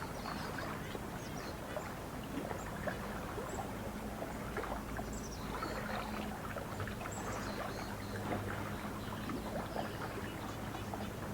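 Lake water lapping and trickling in many small splashes, with small birds chirping faintly and a low steady hum underneath.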